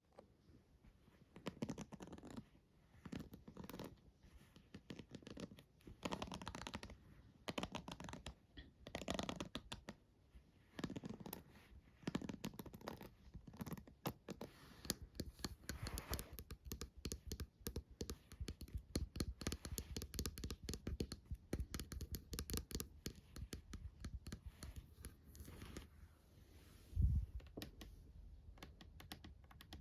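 Close-miked scratching ASMR triggers: bursts of scratching strokes, then from about halfway through a dense run of quick clicks, with one loud low thump near the end.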